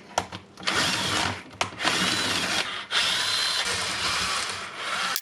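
Bosch 18V cordless rotary hammer drill running in bursts, stopping briefly and starting again three times. The tool works only intermittently, and its connections later prove to be burned wiring inside the housing.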